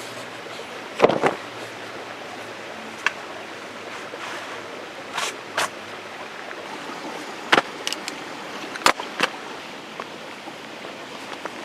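Steady rain hiss, with a series of sharp knocks and clicks from handling things; the loudest knock comes about a second in.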